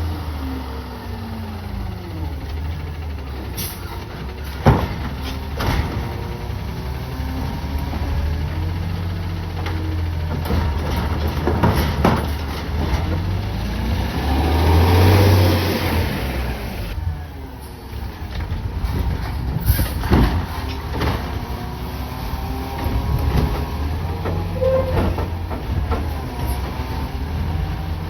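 CNG Peterbilt 520 garbage truck with a split-body side-loader running, its engine pitch rising and falling repeatedly. Sharp knocks come through now and then, the loudest about five seconds in, and there is a burst of hiss about halfway through.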